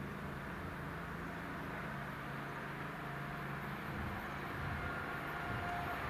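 An approaching train, its running noise a low hum that grows gradually louder, with a faint thin whine coming in near the end.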